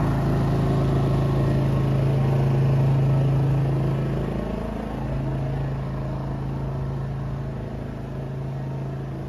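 Generator engine running with a steady hum, briefly wavering about halfway through.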